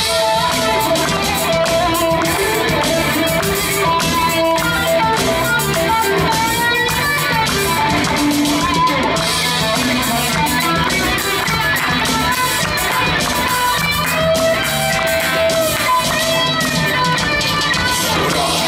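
Live band playing an instrumental passage: guitar with held melody notes over the accompaniment.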